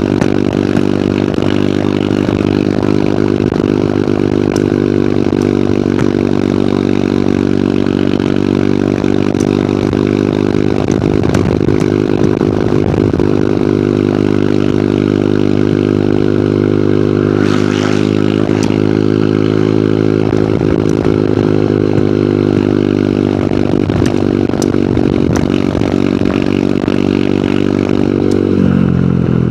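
Hero Hunk motorcycle's single-cylinder four-stroke engine running at steady cruising revs, with wind rushing past. Near the end the revs fall as the bike slows.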